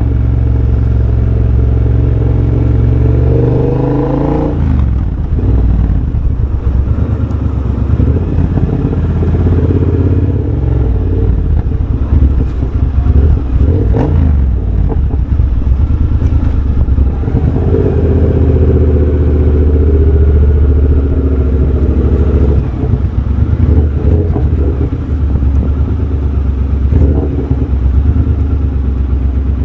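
Triumph Bobber's 1200 cc parallel-twin engine running through a de-cat X-pipe and Motone shorty exhaust while riding. It holds a steady note at first, drops off about four seconds in, then picks up and pulls again, with the pitch rising and falling.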